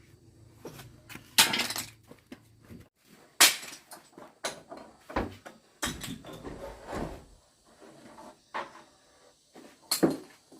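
Irregular wooden knocks and clatters, about ten spread unevenly, as building materials are handled during repairs to a wind-damaged house; the loudest come about a second and a half and three and a half seconds in.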